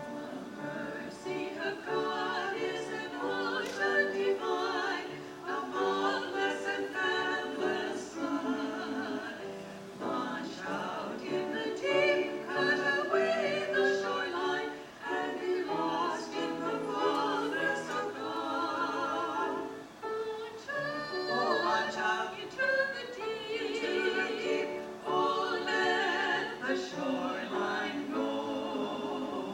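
A choir singing, the held notes wavering with vibrato.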